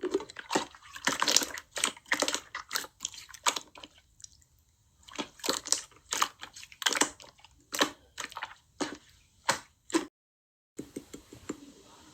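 Slime being squished and pressed by hand: a run of quick, wet clicks and pops, easing off briefly about four seconds in and stopping in a short dropout near the end.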